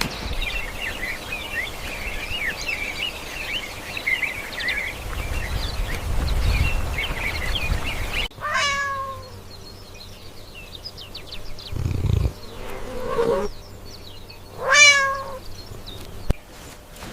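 A busy chatter of short, high chirps. Then, after a sudden cut, a cat meows twice, the calls about six seconds apart, each falling in pitch.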